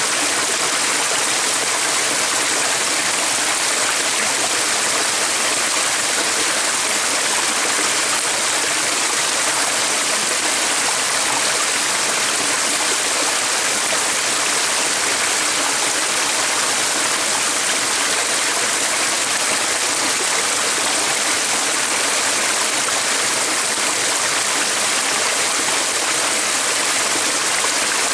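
Steady rushing of flowing water, an even, unbroken hiss with no changes.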